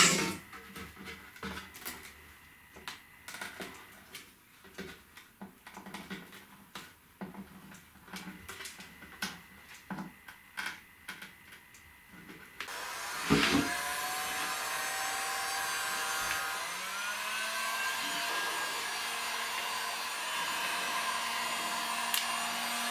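Light handling taps and knocks, then, about 13 seconds in, a small electric blower motor switches on with a knock, whines up in pitch and runs steadily to the end.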